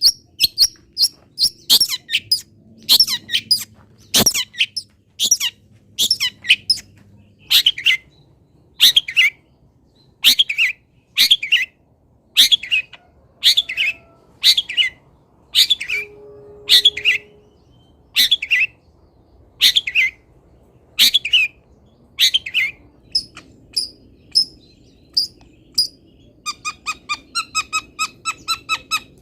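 Songbird calls played as a filler-song training recording for long-tailed shrikes: loud, short, scratchy calls repeated about once a second, then a faster run of short, evenly repeated notes near the end.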